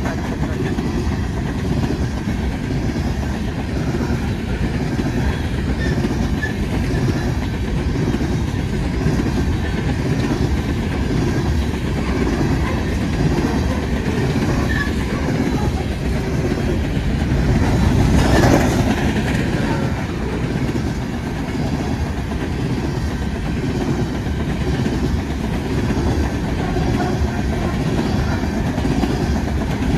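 Cars of an empty coal train rolling past close by: a steady rumble and clatter of steel wheels over the rails, which grows louder for a moment about two-thirds of the way through.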